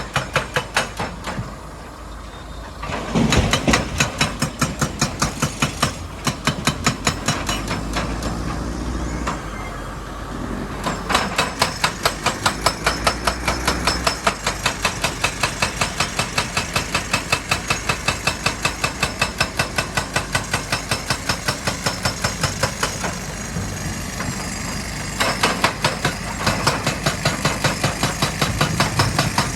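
Heavy rock-breaking machinery: a fast, even hammering of many blows a second over a running diesel engine, easing off briefly a few times.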